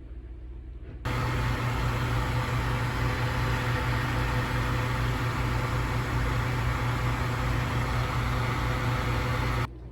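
Steady machine-like hum and hiss, starting suddenly about a second in and cutting off abruptly near the end.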